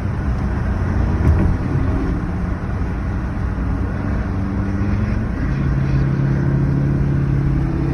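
Car engine running steadily with road noise while driving; the engine's hum shifts to a new steady pitch about five and a half seconds in.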